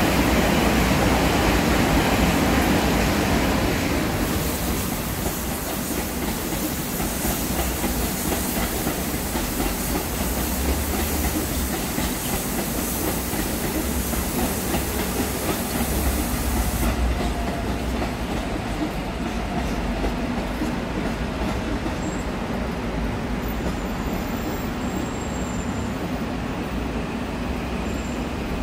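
Electric passenger trains running through a station: a long express train passing close on the near track, loudest in the first four seconds, then the steadier rumble of a commuter electric train running by on a farther track.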